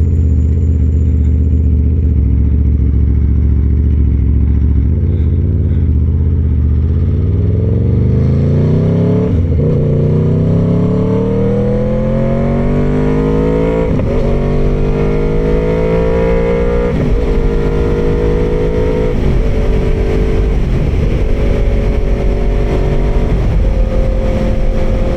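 Aprilia Tuono V4R's V4 engine, heard from inside the rider's helmet. It runs steadily for about seven seconds, then pulls hard through the gears: the pitch rises, drops at each upshift about nine, fourteen and seventeen seconds in, then settles to a steadier run near the end.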